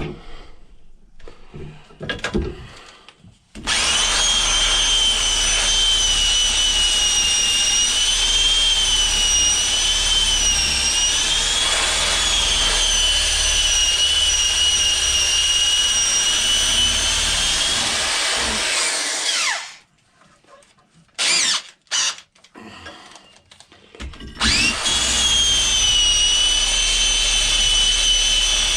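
High-speed electric power tool running with a steady high whine while taking rust off an axe head. It stops a little past the middle, gives two short bursts, then runs steadily again near the end.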